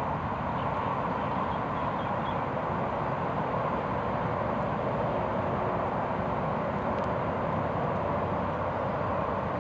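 Steady hum of distant road traffic, even and unbroken.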